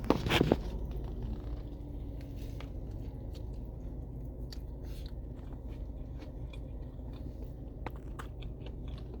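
Close-up chewing and crunching of crispy fried chicken, with small scattered crunches over a steady low hum. A louder burst comes right at the start.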